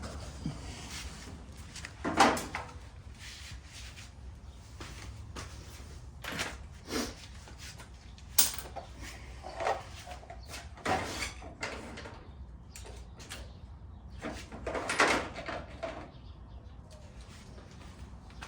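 Scattered knocks and clatters of metal parts and tools being handled and set down, over a steady low hum.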